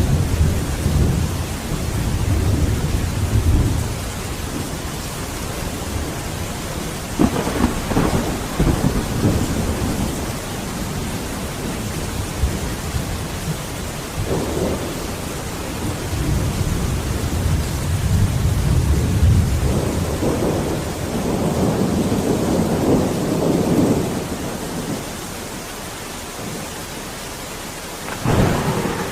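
Heavy rain falling steadily while thunder rumbles low several times, with a sharper clap of thunder near the end.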